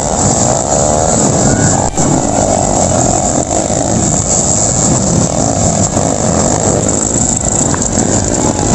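Underbone motorcycle engines revving and running during a motocross race, loud and continuous, their pitch rising and falling.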